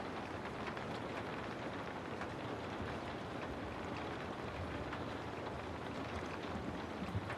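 Steady rain falling on a house: a constant hiss with many small drops ticking through it.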